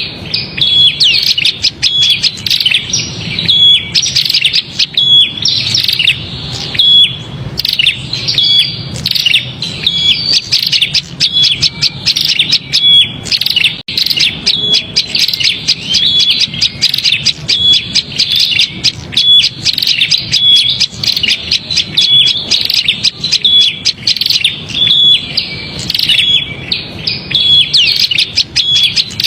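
Prinias (prenjak) calling in a rapid, agitated chatter of high chirps and trills, with a short clear note repeating about once a second: the noisy 'ribut' calling used as a lure to draw small birds. A brief gap falls about halfway through.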